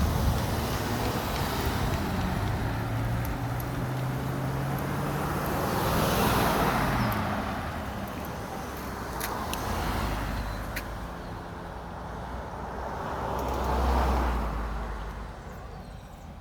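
Street traffic with a vehicle engine running, its pitch rising and falling. Two swells of road noise come about 6 and 14 seconds in, like vehicles passing close by, and a few light clicks fall between them.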